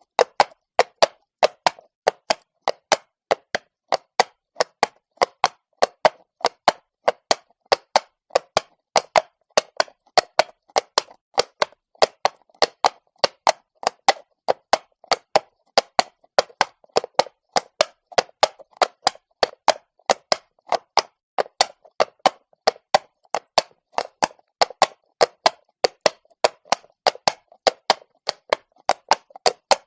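Horse walking on stone, its hooves clopping in an even rhythm of about three strikes a second.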